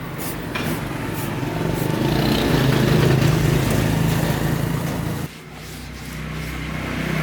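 A motor running with a steady low hum and hiss, swelling a little, then cutting down sharply about five seconds in before building up again.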